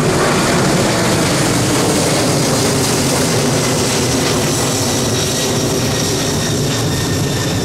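Jet engine noise from an Airbus A350-900's Rolls-Royce Trent XWB turbofans: a loud, steady rush with a faint high whine coming in partway through.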